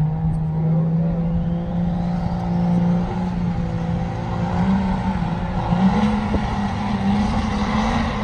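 Competition diesel pickup truck engine under full load, its pitch climbing slowly and steadily as the revs build in one long unbroken pull.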